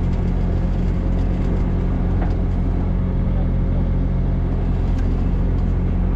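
Heavy farm machine's engine running steadily at an even speed: a constant low drone with no revving or pauses.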